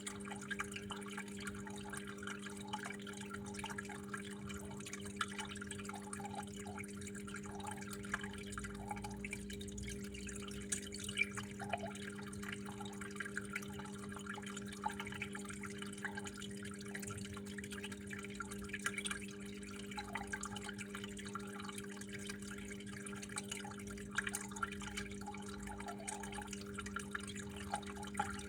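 Water trickling and dripping steadily, with many small irregular splashes, over a steady low hum.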